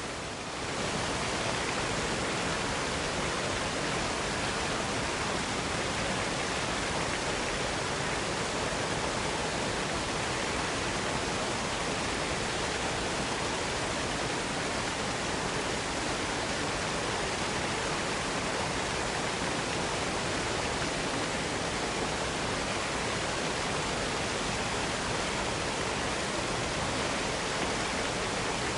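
Waterfall cascading: a steady, even rush of falling water, with a brief dip in level right at the start.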